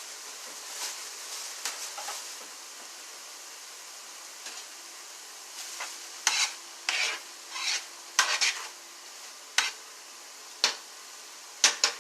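A utensil stirring and scraping chopped turkey lunch meat and vegetables frying in a pan over a steady faint sizzle, with a run of quick, sharp scrapes in the second half.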